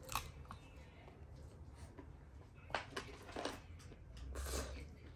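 A person chewing and smacking her lips while eating by hand, with scattered short wet clicks and smacks.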